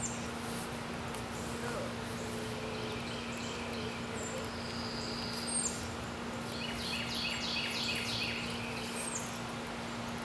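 Outdoor ambience with birds chirping: scattered short high chirps, then a quick run of repeated chirps about two-thirds of the way through, over a steady low hum.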